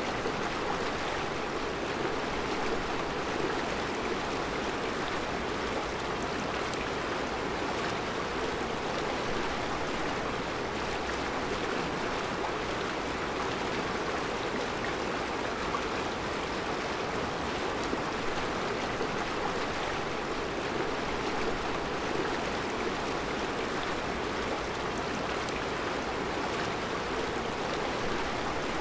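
Mountain river flowing over round rocks in a rocky bed: a steady rush of water.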